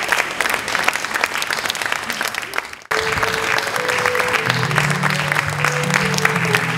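Audience applauding. About three seconds in, the sound cuts off abruptly; the clapping then resumes with steady held musical notes beneath it.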